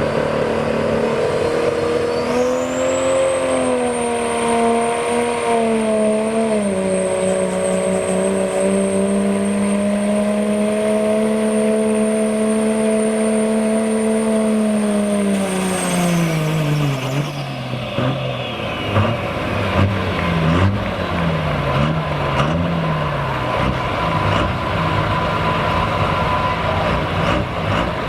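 Turbo-diesel 4x4 pickup in the 2.6 pulling class running under full load on the track. Revs climb about two seconds in and hold high and steady with a high turbo whistle. Around sixteen seconds the throttle comes off, the whistle fades, and the engine drops to lower, uneven revs.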